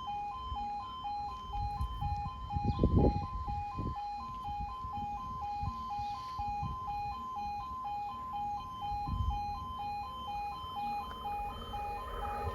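Level crossing warning alarm sounding a steady two-tone yodel, two electronic tones alternating about twice a second, while the barriers are down for an approaching train. Bursts of low rumble come and go underneath, loudest a few seconds in.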